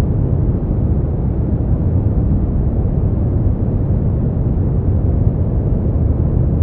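Steady, unbroken white noise played as a sleep aid, heavy in the low end so it sounds like a deep, even rumbling hiss with no changes.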